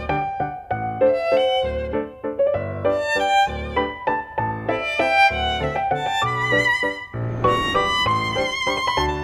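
Background score: a violin playing a quick melody of separate notes, some held with vibrato, over low bass notes about once a second.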